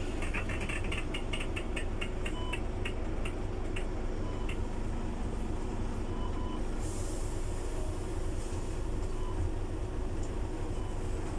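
Scania city bus running with a steady low engine rumble. A quick run of sharp clicks or rattles sounds over the first few seconds, and a short hiss of air comes about seven seconds in.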